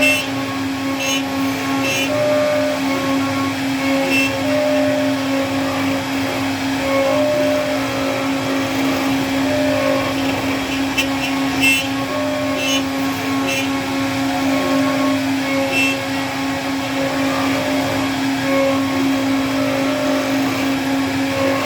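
CNC router with a rotary axis running: the spindle gives a steady whine, while the stepper-driven axes add short tones that come and go and change pitch as the moves change, with a few light clicks.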